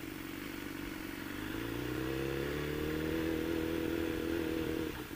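BMW S1000R's inline-four engine pulling under steady throttle, its pitch rising slowly and then holding, with a brief dip near the end.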